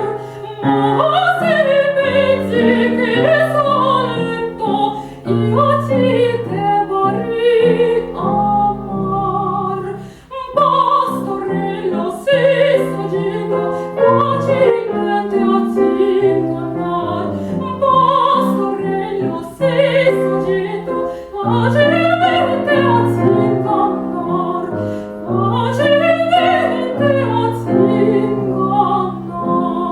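Woman singing an operatic aria in classical style with vibrato, accompanied on piano; the phrase fades near the end.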